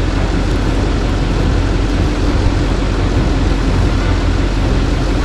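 Chevy K3500's Duramax turbo-diesel V8 running steadily.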